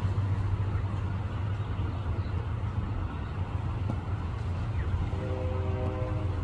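A steady low rumble, with a brief steady humming tone from about five seconds in.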